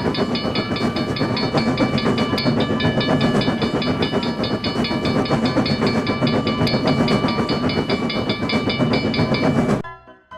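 Train running sound effect: a steady rumble with a rapid, evenly repeating high ringing over it. It cuts off suddenly near the end.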